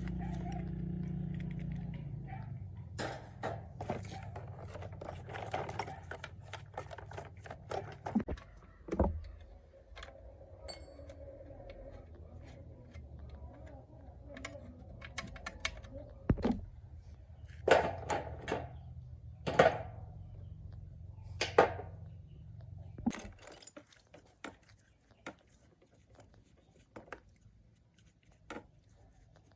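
Metal tools and engine parts clinking and knocking in irregular handling sounds, over a steady low hum that cuts off abruptly about three-quarters of the way through.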